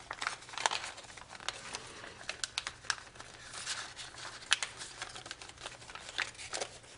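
A sheet of foil origami paper crinkling and crackling as it is folded and creased by hand, in irregular small crackles with a sharper snap about four and a half seconds in.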